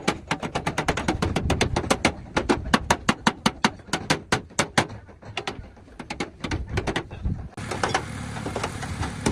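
Rapid hammer blows on car body sheet metal, about five a second, slowing and thinning out toward the end before a fresh run starts.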